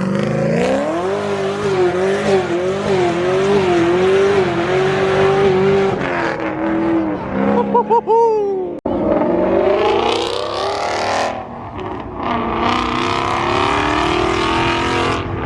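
Tuned Cadillac CTS-V with a supercharged V8 accelerating hard away. The engine note climbs, then holds high and wavering for several seconds. After an abrupt cut, another car's engine rises as it accelerates.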